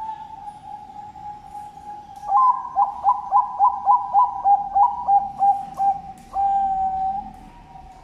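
Zebra dove (perkutut, Bangkok strain) singing its cooing song: a long soft opening note, then a quick run of about a dozen short clipped notes, roughly three a second, and a final long held coo.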